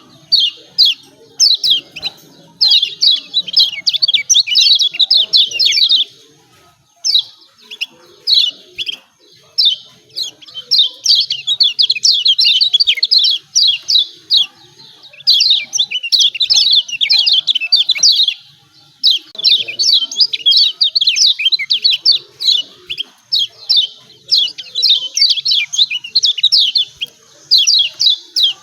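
Kecial kuning (yellow white-eye) giving its fast, excited 'ciak ciak' chattering calls, rapid sharp high notes in bursts of a few seconds with short breaks between them. This is the agitated call used as a lure to provoke other kecial kuning into calling.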